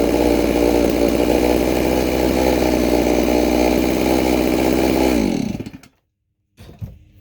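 Holzforma G660 (MS660 clone) two-stroke chainsaw engine held steady at wide-open throttle, running at about 13,500 rpm on its untouched carburettor settings, right at the manual's upper limit. About five seconds in the revs drop and the engine shuts off, and a short knock follows a moment later.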